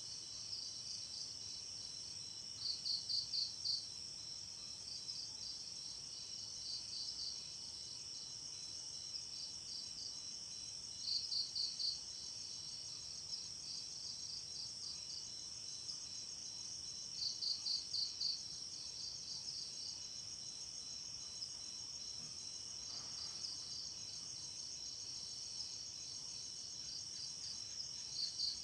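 Night chorus of crickets and other insects trilling steadily at a high pitch, with a louder chirp of four or five quick pulses breaking in every several seconds.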